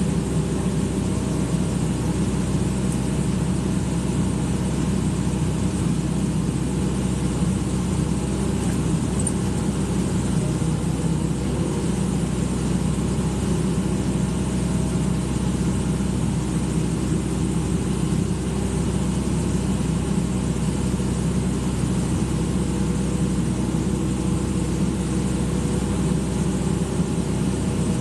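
Excavator's diesel engine running steadily at a constant speed, with no revving.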